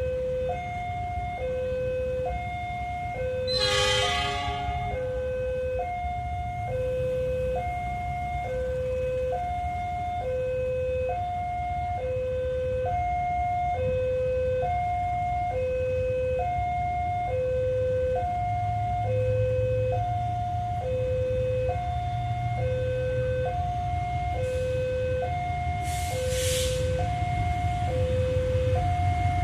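Railway electronic warning alarm sounding a steady two-tone pattern, a low note and a higher note alternating about once every second and a half, over a low rumble. A brief loud burst about four seconds in, and a short hiss near the end.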